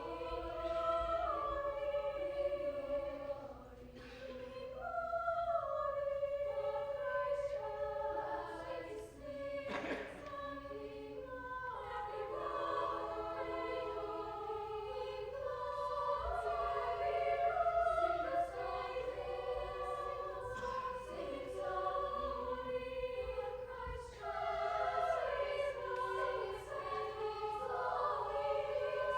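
High school choir singing in several parts, held notes moving together, with short breaks between phrases.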